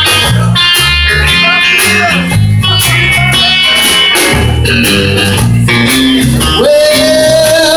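Rock and roll band playing an instrumental break: electric guitar over a moving bass line and drums, with a long held note coming in near the end.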